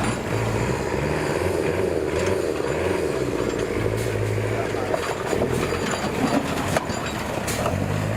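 Off-road 4x4 vehicle engine running, its pitch stepping up and down, with a few sharp clicks or knocks near the end.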